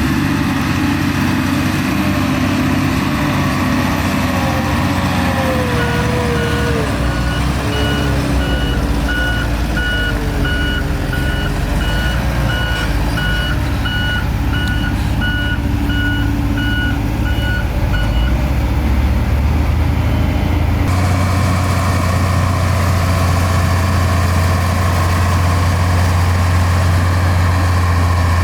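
Heavy diesel earthmoving machinery running, with a reversing alarm giving a steady run of evenly spaced beeps through the middle as a machine backs up. Near the end the sound switches suddenly to a louder, deeper steady diesel drone.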